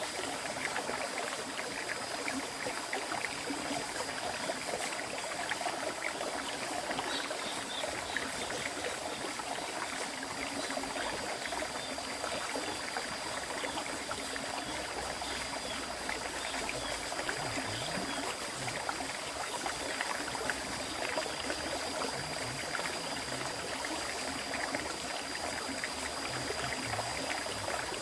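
Continuous flow of a river stream: a steady rush of water, with a faint high-pitched tone held throughout.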